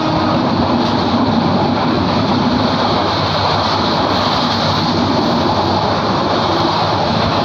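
Passenger train running at speed, heard from a carriage window: a steady, loud rush of wheel and track noise mixed with wind.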